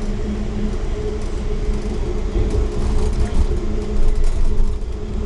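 Amtrak Pennsylvanian passenger train running at speed, heard from inside the passenger car: a steady low rumble from the wheels on the rails, with a constant hum and faint scattered clicks.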